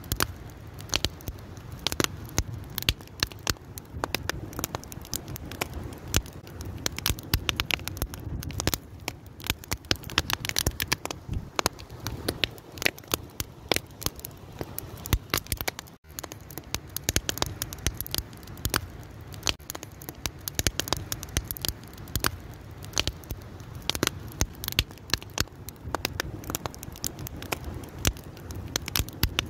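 Wood fire crackling: dense, irregular pops and snaps over a low, steady rumble of the flames, with a momentary drop about halfway through.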